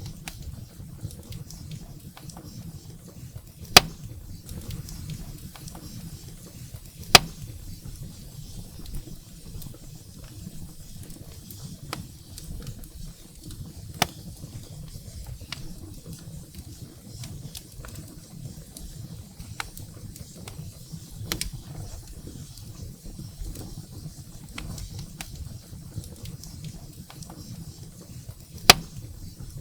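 Wood fire burning in a fireplace: a steady low rumble of flames with constant small crackles and four loud, sharp pops from the burning firewood.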